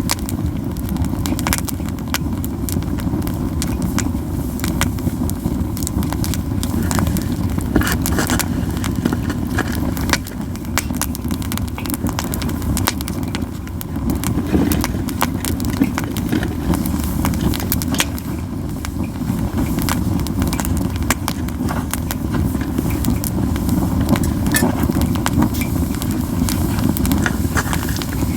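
Japanese yew wood campfire burning: many sharp crackles and pops scattered throughout, over a steady low rumble.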